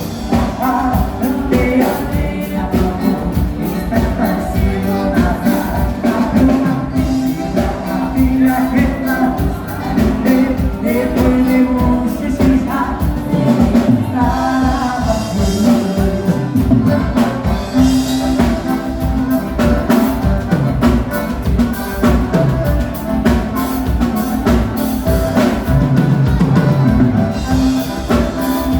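Live gaúcho dance-band music: button accordion, drum kit and a singing voice over a steady beat.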